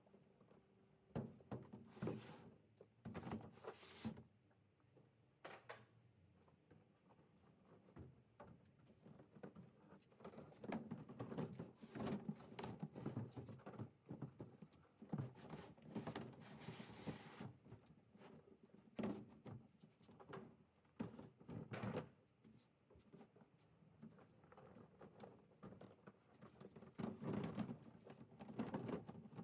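Scattered handling noises in a small room: irregular knocks, thuds and rustling as household items are handled and packed for a house move.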